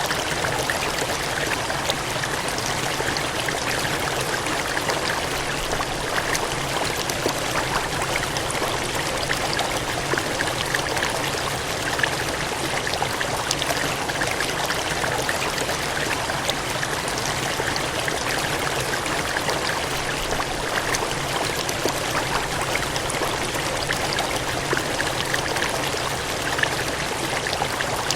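Gushing, cascading water: a steady, unbroken rush with fine spattering detail and no change in level.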